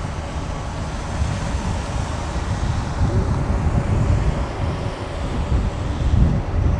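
Jet airliner engines with a steady low rumble, and wind buffeting the microphone.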